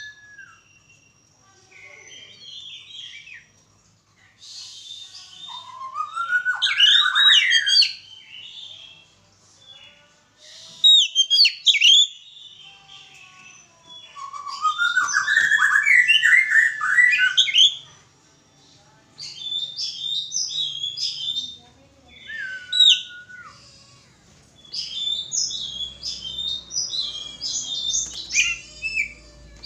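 Oriental magpie-robin (kacer) singing: loud phrases of gliding whistles and rapid chirps, with short pauses between them and runs of quick repeated notes near the end.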